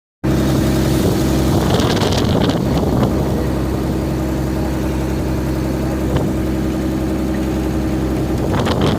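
A vehicle's engine running steadily, a low hum with wind noise on the microphone.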